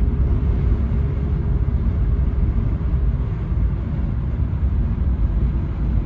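Toyota Carina E with a 1.6-litre 16-valve engine driving along: a steady engine drone and road rumble.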